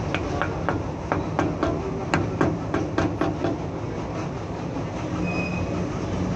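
Quick run of light metallic taps, about fifteen at roughly four a second, over a steady low hum; the taps stop about halfway through.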